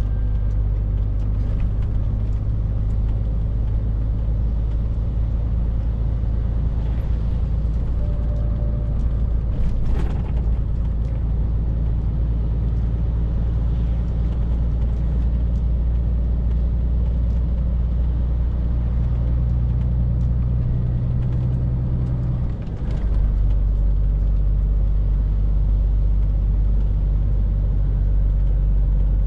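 Scania R450 lorry's 13-litre six-cylinder diesel running steadily on the road with a low drone. About three-quarters of the way through, the drone dips briefly and comes back slightly louder at a different pitch.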